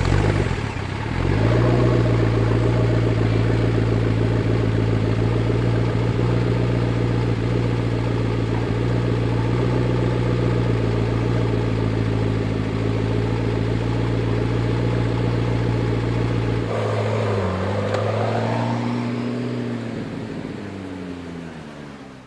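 McLaren 12C's twin-turbocharged V8 starting with a sudden loud burst, then idling steadily for about fifteen seconds. Near the end the engine note dips and shifts in pitch and then fades away.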